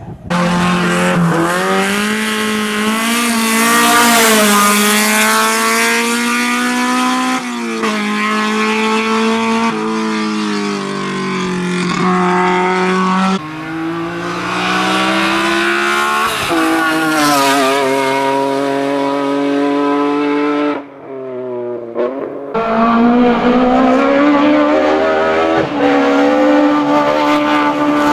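BMW M3 race car engine at full throttle, revving up through the gears with a sudden drop in pitch at each upshift, then pitch falling on lift-off and rising again. Near the end the sound breaks off briefly and resumes with another car or run accelerating hard.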